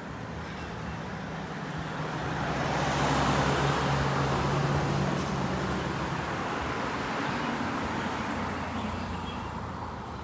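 A motor vehicle passes on the road, its tyre and engine noise swelling over a couple of seconds, peaking a few seconds in and then slowly fading.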